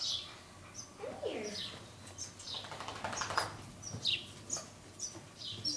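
Small birds chirping, with many short high chirps scattered irregularly throughout.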